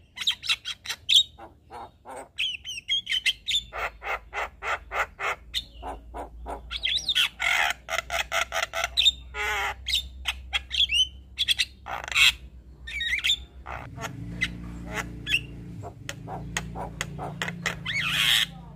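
Javan myna singing: a fast run of sharp clicking notes mixed with harsh squawks and whistled, warbling phrases. A faint low hum joins in during the last few seconds.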